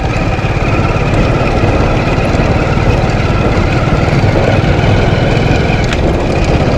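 Hero Honda motorcycle's single-cylinder four-stroke engine running steadily under way, heard from the rider's seat as a dense, even rumble.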